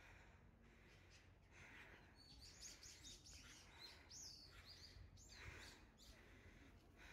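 Faint songbird singing: a quick run of high, rapidly repeated chirping notes, from about two and a half to five seconds in, over a quiet background hiss.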